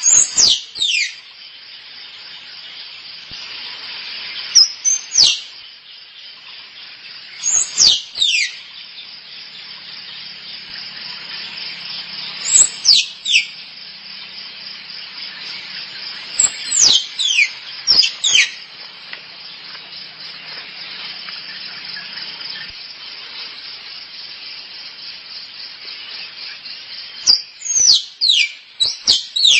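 Squirrel mating calls: short, high chirps that sweep sharply down in pitch, coming in clusters of one to three several seconds apart. Behind them is a steady chorus of insects.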